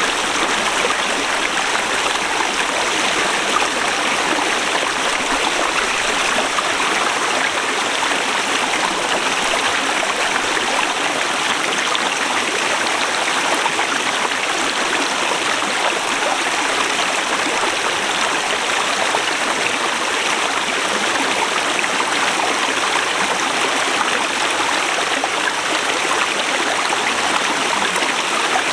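Forest river rushing steadily over rocks, a constant even rush of flowing water.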